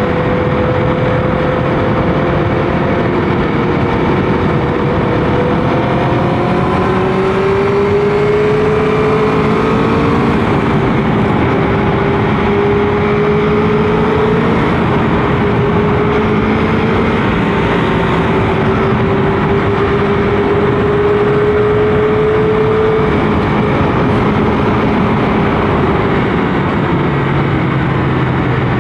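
Motorcycle engine running on the move, its pitch climbing slowly and easing back as the rider speeds up and rolls off, under a steady rush of wind and road noise.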